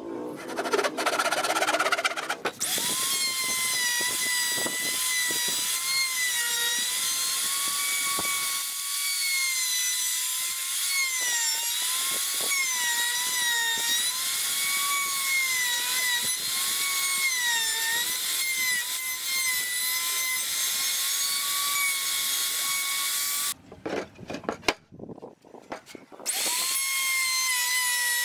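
Electric power tool motor working wood with a high steady whine whose pitch sags again and again as the tool is pressed into the cut. It switches off for a few seconds near the end, with a few knocks, then starts up again.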